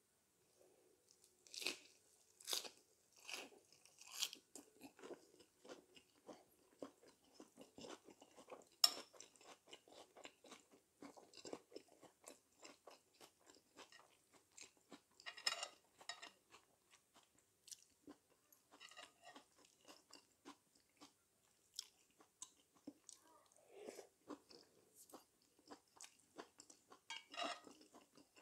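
Close-up chewing of a mouthful of lettuce wrap with spicy stir-fried chicken and vegetables: four crisp crunches about a second apart near the start, then softer steady chewing with a few louder crunches.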